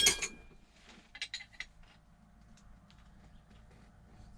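A sharp metal clank with a short ring as a hand tool or metal part is knocked or set down, followed about a second later by a few lighter clicks of metal parts being handled.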